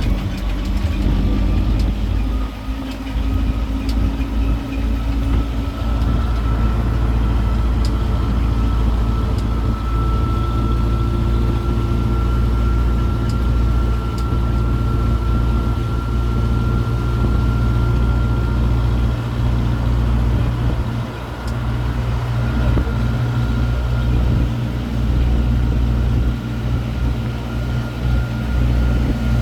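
Steady low rumble of a road tourist train's engine and running gear heard from aboard while it travels, with a faint high whine over it.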